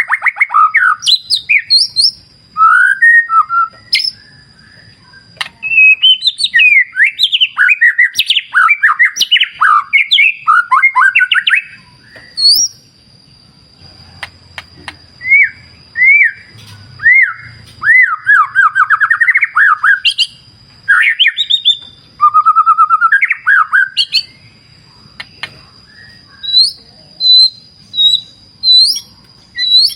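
White-rumped shama (murai batu) singing a long, varied song of loud whistled and chattering phrases, broken by short pauses. A steady thin high tone holds behind the song from about halfway on.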